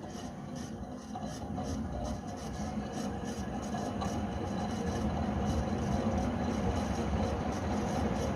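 1970s Crompton Greaves HB 56-inch ceiling fan slowly spinning up after being switched on, a slow start from its weak original capacitor. Its running noise and rush of air grow steadily louder with a faint regular pulsing, along with the grinding of worn bearings that need replacing.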